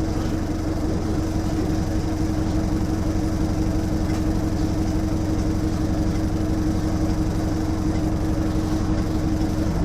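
Bus engine running steadily: a constant drone with an unchanging tone and low rumble.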